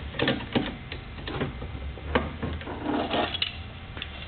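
Irregular light clicks and knocks of small metal saw parts being handled, with a brief scrape about three seconds in, as the shield and guard are taken off a chop saw.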